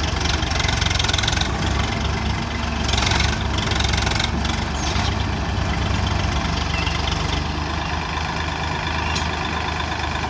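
Tractor diesel engines running steadily with a deep, continuous engine sound.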